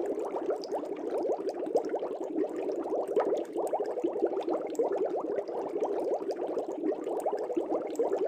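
Aquarium water bubbling steadily: a dense, rapid, unbroken stream of small bubbles.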